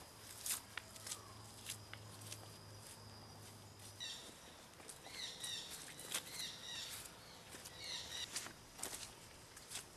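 Forest ambience with birds calling: from about four seconds in, a bird repeats short chirping phrases over and over. Scattered faint clicks and rustles run underneath.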